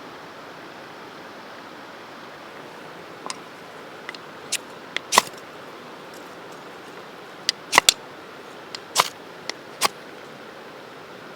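Wood campfire crackling: irregular sharp pops and snaps, some in quick pairs, over a steady hiss, bunched in the middle and latter part.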